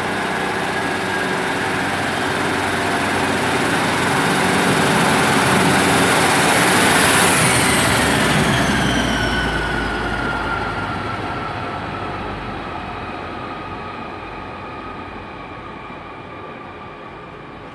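Class 153 single-car diesel multiple unit departing and passing close by. Its engine and whine grow louder, then the pitch drops about seven seconds in as it goes past, and the sound slowly fades away.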